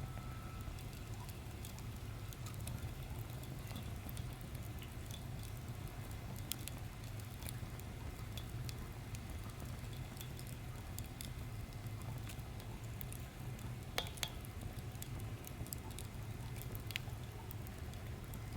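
Wood fire crackling in a small fire pit: scattered sharp pops and snaps, one louder pop about fourteen seconds in, over a steady low rumble.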